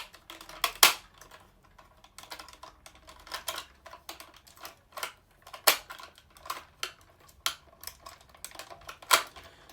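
Irregular sharp plastic clicks and taps from a Buzz Lightyear action figure being handled.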